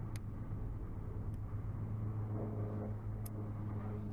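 Steady low mechanical hum with three faint, short clicks spread through it.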